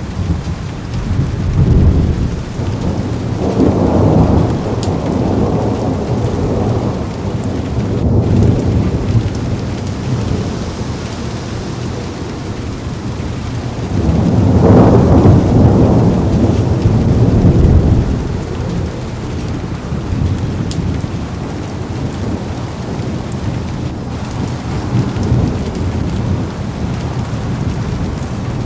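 Heavy rain pouring onto a car's window, with low rolling thunder swelling twice, the louder roll about halfway through.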